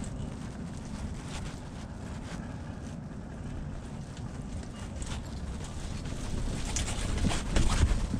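Strong wind buffeting the microphone: a low rumble that gusts louder near the end.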